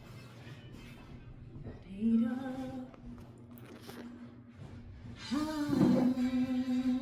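A voice singing long held notes without clear words over quiet music: one brief note about two seconds in, and a louder, longer one starting just past five seconds.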